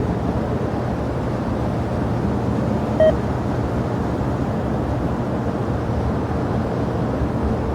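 Steady rumble of jet airliner engines running at low power on the airfield, with a faint steady hum. About three seconds in comes a single short electronic beep.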